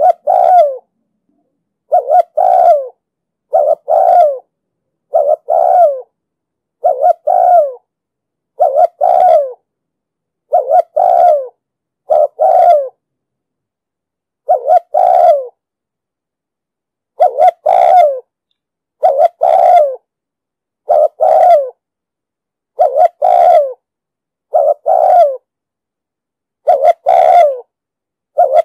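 Spotted dove cooing. It repeats short phrases of two or three coos about every one and a half to two seconds, with a couple of longer pauses about halfway through. This is the recorded cooing that keepers play as a lure to call in wild doves.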